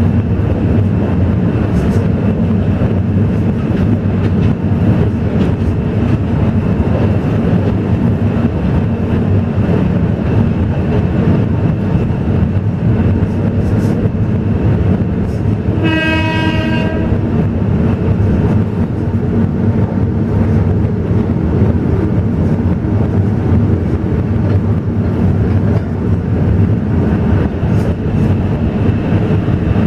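Alishan Forest Railway train running with a steady rumble. Its horn sounds once, about halfway through, for roughly a second.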